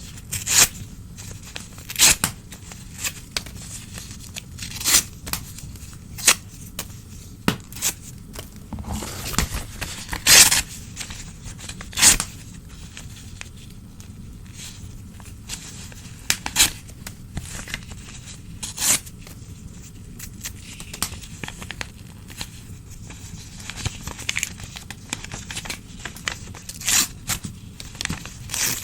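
Old newspaper being torn by hand in short, irregular rips, each a sharp tear of a second or less, with a few longer tears and rustling between them.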